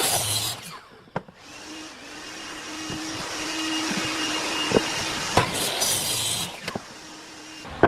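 An electric motor running with a steady whine and hiss, building up about a second and a half in and stopping near the end, with a few sharp clicks and knocks.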